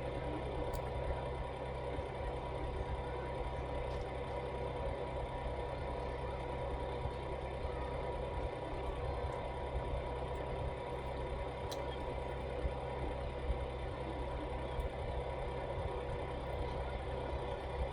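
A steady low mechanical rumble with a constant hum, unchanging throughout, with a few faint ticks.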